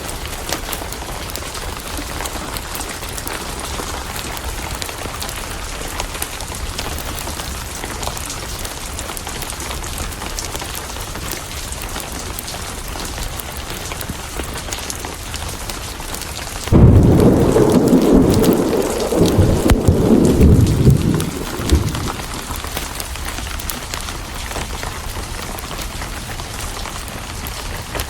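Steady heavy rain with a loud clap of thunder about two-thirds of the way through that starts suddenly and rolls for several seconds before dying away into the rain.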